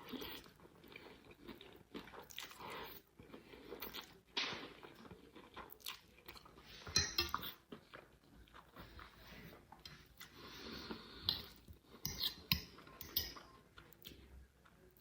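Close-up chewing and crunching of mouthfuls of pasta with sardines, mayonnaise and shoestring potato sticks, in irregular bites. A few sharp clinks of cutlery on the plate come in between.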